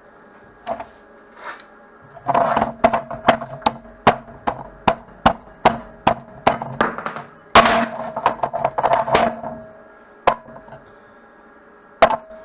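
Hammer striking steel. A couple of single knocks lead into a quick run of sharp metallic taps, two or three a second, each leaving a short ring. One longer, louder hit comes in the middle of the run, and a last knock comes near the end.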